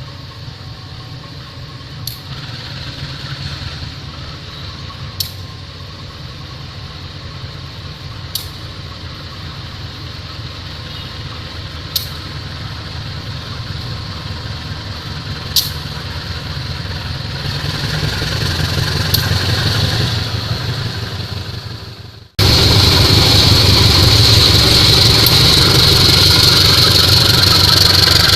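A heavy engine running steadily, with a sharp click about every three seconds, swelling louder. About 22 seconds in it cuts abruptly to a louder, steady engine-and-rushing noise.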